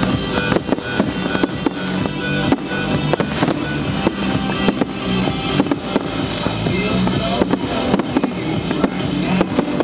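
Fireworks going off in many sharp, irregular bangs, several a second at times, over loud music.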